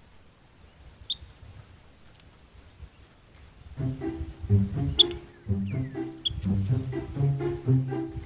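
Insects, such as crickets, trill steadily in two high bands, cut through three times by short, sharp, high bird chirps. About four seconds in, background music with a steady beat comes in.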